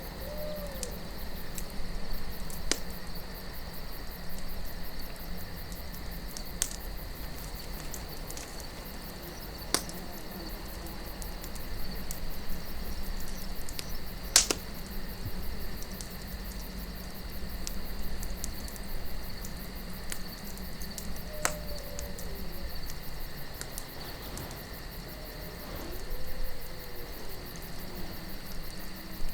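Campfire crackling with occasional sharp pops, the loudest about fourteen seconds in, over a steady chirring of crickets and a low wind rumble. Faint falling animal calls sound briefly about two-thirds of the way through and again near the end.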